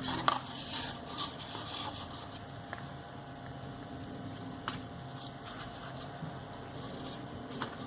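Card stock paper strips handled and pressed into place while being glued: faint rustles and a few light clicks over a steady low hum.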